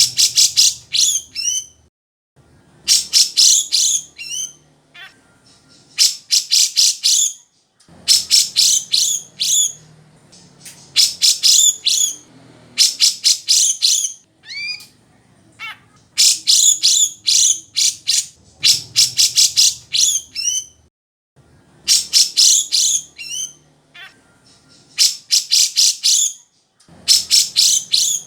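Grey-cheeked bulbul (cucak jenggot) singing loudly: phrases of rapid, high chattering notes, each one to two seconds long and ending in a few short sliding notes, repeated after short pauses.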